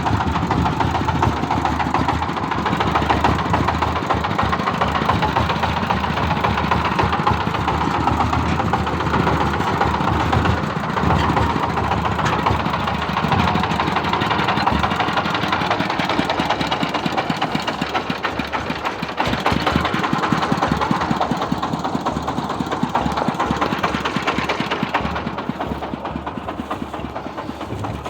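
An engine running steadily, growing quieter in the last few seconds.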